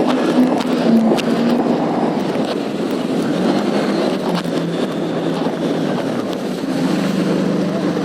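Jet ski engine running at speed, with wind and water spray rushing past. The engine note drops a little about six seconds in.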